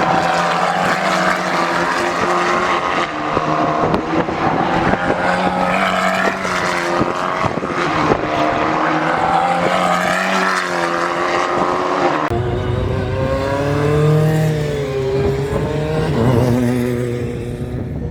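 Racing car engines running on a circuit, first British F4 single-seaters and then, after an abrupt change about twelve seconds in, BTCC touring cars with a deeper engine note. Engine pitch rises and falls through gear changes.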